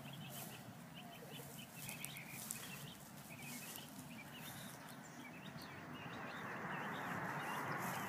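Small birds chirping in quick, scattered calls. About six seconds in, a steady rushing noise swells and stays louder.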